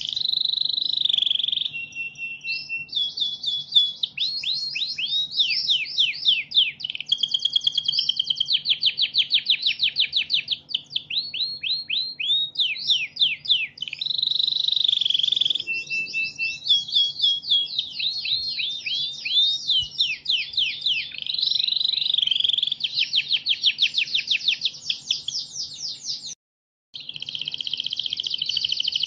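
Recorded songbird song used as a masteran tutor track: a continuous run of rapid trills and fast up-and-down sweeping notes. The playback cuts out for about half a second near the end.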